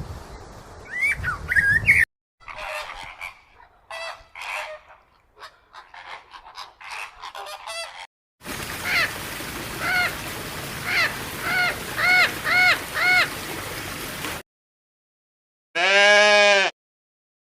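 Short animal-call clips one after another: chirping birds, then a run of about eight honking calls, each arching up and down in pitch. After a gap comes a single loud call lasting about a second.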